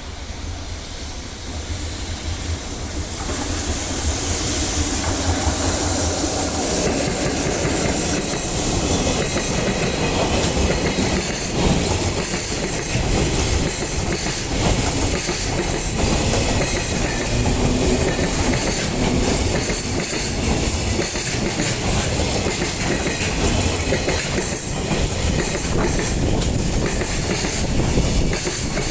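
Freight train passing close by, its wagons rolling with a quick run of wheel clicks over the rail joints and a steady high squeal from the wheels. It grows louder over the first few seconds, then holds steady.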